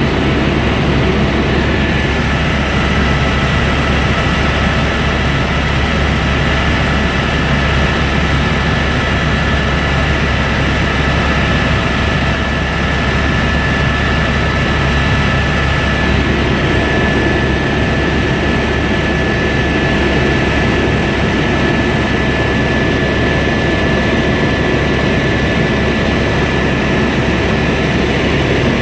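Helicopter in flight: a steady, loud drone of rotor and engine with a constant high whine over it.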